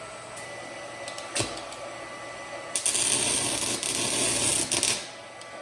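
Stick-welding arc crackling and sizzling for about two seconds in the second half, after a single tap of the electrode about a second and a half in, over a low steady hum.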